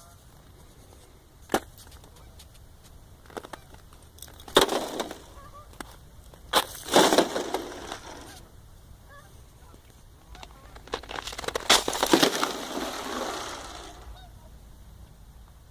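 River ice floes grinding and crunching against each other. There are a few sharp cracks, then three crisp bursts of crunching a couple of seconds apart, and the last one is the longest, about three seconds.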